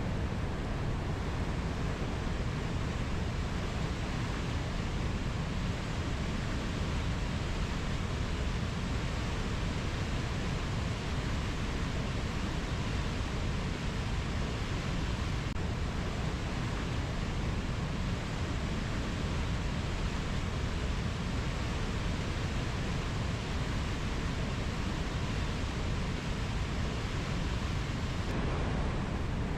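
Steady, even rushing noise of a nature ambience track, heaviest in the low end, with no birds or insects standing out.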